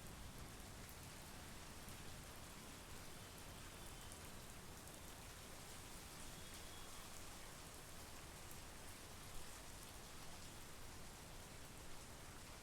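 Faint, steady monsoon rain falling, with light ticks of individual drops.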